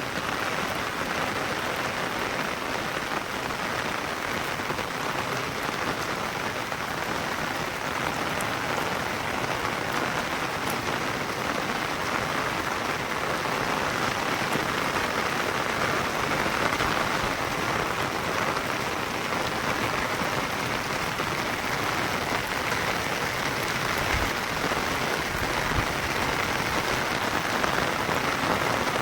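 Rain falling steadily, an even patter of drops on the ground and surfaces.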